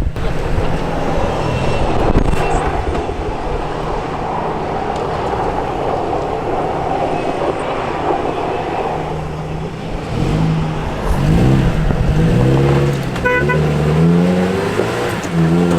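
An off-road vehicle's engine running under load on an obstacle, then revved up and down several times in the second half as the driver tries the climb again.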